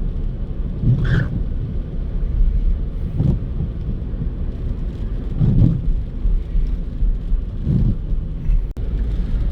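Car driving, heard from inside the cabin: a steady low rumble of road and engine, with a brief swell of sound about every two seconds.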